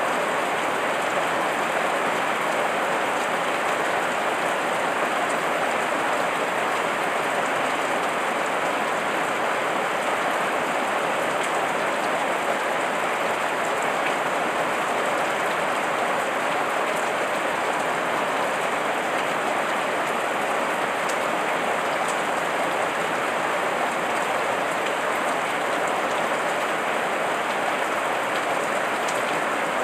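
Heavy rain falling steadily on leaves, a constant dense patter with occasional faint drop ticks.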